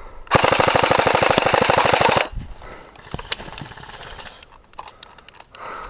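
Airsoft gun firing a rapid full-auto burst of about two seconds, then a few scattered single shots and clicks.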